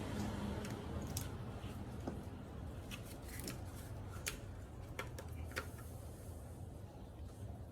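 A series of light, sharp clicks and taps from engine parts being handled and fitted by hand, over a low steady hum.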